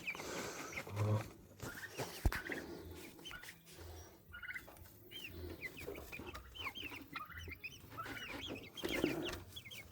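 Young chicks peeping, many high little chirps over and over, with a few sharp clicks and knocks of plastic waterer parts being handled.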